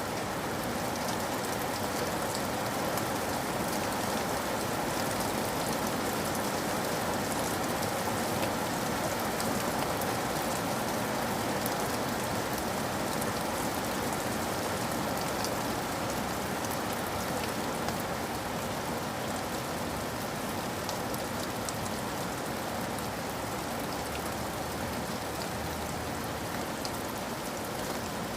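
Steady rain, an even patter with scattered fine drop ticks, used as a background ambience track.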